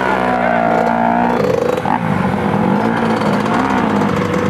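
Several motocross bike engines running together. Their pitch holds for about a second and a half, then rises and falls as the throttles are blipped.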